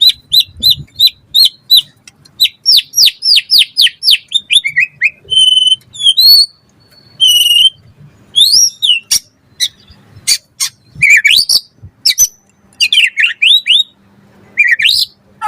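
White-rumped shama (murai batu) singing a fast, varied song. It opens with rapid repeated short chirps at about five a second, then moves to downward-slurred notes, high whistles, sharp clicks and rising slurs.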